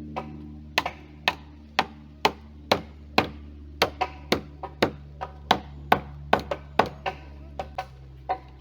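A tool striking wood over and over in quick, uneven blows, about two or three a second, as in cabin construction work.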